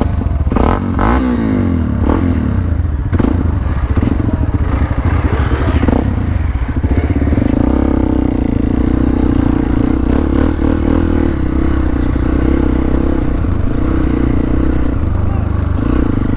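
Hero Xpulse 200 motorcycle's single-cylinder engine running, its pitch rising and falling with throttle blips in the first few seconds, then settling into a steady idle from about seven seconds in.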